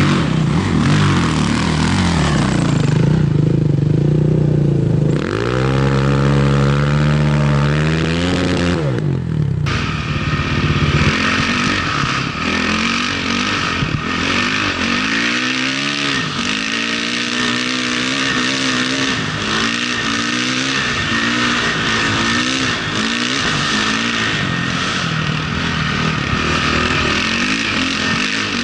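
Off-road motorcycle engine revving up and down over and over as the bike is ridden, with a clear climb and drop in pitch about five to nine seconds in.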